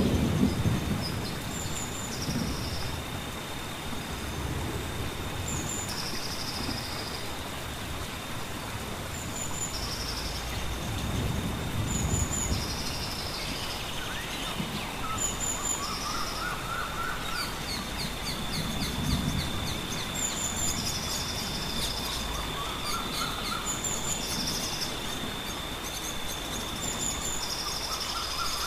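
Tropical forest ambience: a bird repeats a short high call about every two seconds over a steady thin high-pitched whine, with a few lower, arching calls now and then. Occasional low rumbles.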